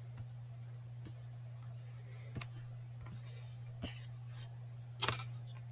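Faint, scattered computer mouse clicks, about half a dozen, the loudest about five seconds in, over a steady low electrical hum.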